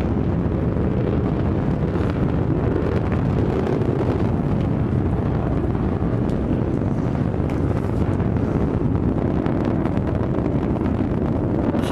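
Steady, loud rumble of the New Shepard rocket's BE-3 engine burning during ascent, a low roar with no breaks.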